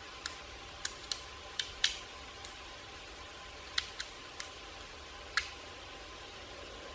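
Black woodpecker pecking at tree bark while foraging: about ten sharp single knocks at an irregular pace, not a drumming roll.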